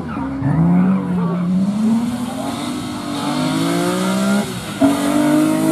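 Rally car engine accelerating hard through the gears. Its pitch climbs, drops at each upshift, and climbs again, with a short sharp spike at the shift near the end.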